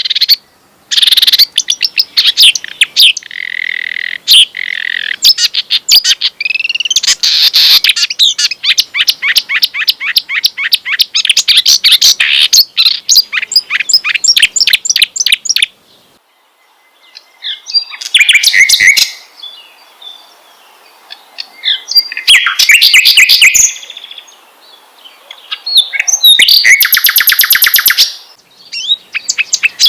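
Kerak basi (reed warbler) and sikatan londo (flycatcher) songs: rapid runs of sharp, repeated high chirps and trills, broken by a few short pauses.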